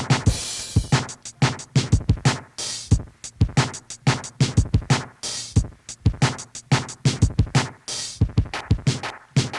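Hip hop drum machine beat playing on its own between rap verses: a fast, steady pattern of hits, with a hissing cymbal-like crash roughly every two and a half seconds.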